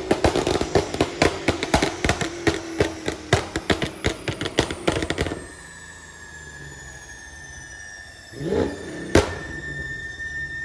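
Car exhaust crackling and popping rapidly and irregularly for about five seconds as a hard-revved engine comes off the throttle, which onlookers take for a V8. It then goes quieter, with a faint rising whine and one sharp pop near the end.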